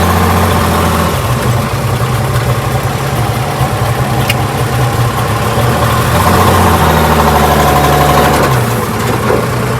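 1968 Ford Bronco engine running, its speed shifting a few times.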